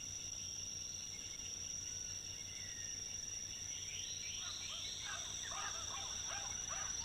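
Rainforest ambience dominated by a steady high-pitched insect drone, with faint short chirping calls in the second half.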